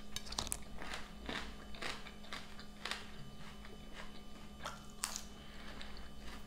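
Close-miked chewing: crunching through a mouthful of fresh green onion and crisp iceberg-lettuce salad, with irregular sharp crunches.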